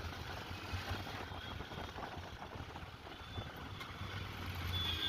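Motorcycle engine running with a low, steady rumble as the bike is ridden, with road and wind noise. A high steady electronic tone starts just at the end.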